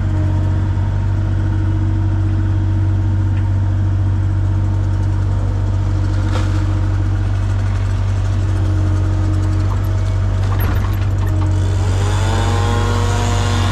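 A large machine engine running steadily during backfilling, then revving up about twelve seconds in.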